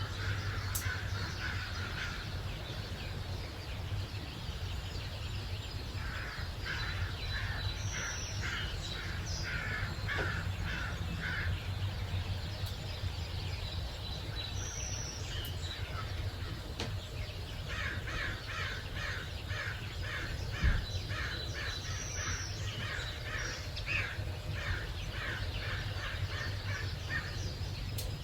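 Outdoor birds calling. One bird repeats harsh notes about twice a second in two long series, while a short high falling call recurs every several seconds over a steady low rumble. There is a single thump about two-thirds of the way through.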